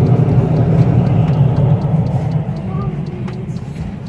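Loud, steady low rumble that eases off near the end.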